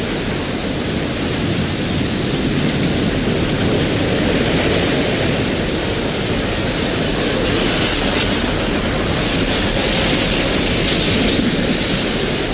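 Heavy rain in a thunderstorm: a steady, even roar that builds slightly louder over the seconds.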